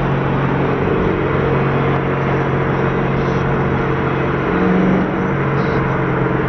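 Twin-turbo Mustang engine running steadily at a constant pitch, with a short rise in engine speed about four and a half seconds in before it settles back.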